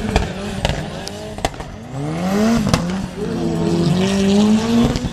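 Mitsubishi Lancer Evolution's engine revving hard during a drift: the pitch climbs steeply about two seconds in and stays high, with tyre squeal. Several sharp cracks break through, the clearest near the start and at about 0.7, 1.5 and 2.7 s.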